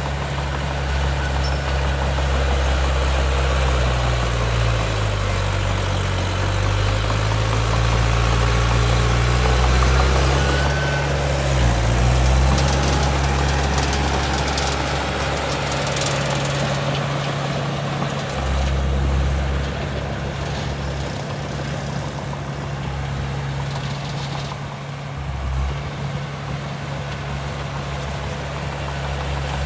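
Heavy earthmoving machine's diesel engine running. Its pitch sinks and climbs back between about four and twelve seconds in as the revs change, then it settles into a steady run.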